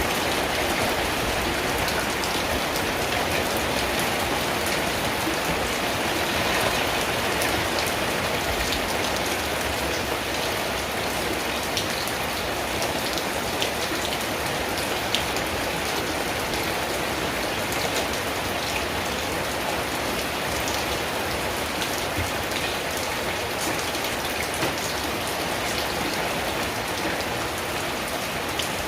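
Steady rain drumming on a tin roof, a dense, even hiss with countless small drop ticks.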